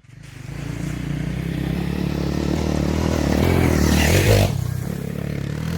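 Honda CB500X parallel-twin engine and exhaust running, fading in and growing louder to a peak about four seconds in, then easing slightly.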